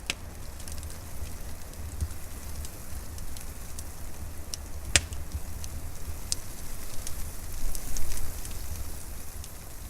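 Wood fire crackling, with scattered small pops, one sharp loud pop about halfway and a louder burst of crackling near the end, over a low steady rumble.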